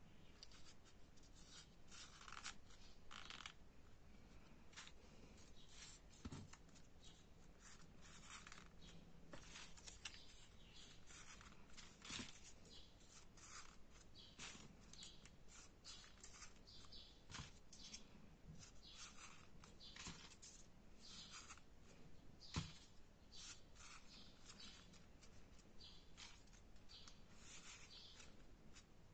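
Faint, intermittent rustling of folded paper units being handled and slotted into one another for a 3D origami model, with one sharper tap about 22 seconds in.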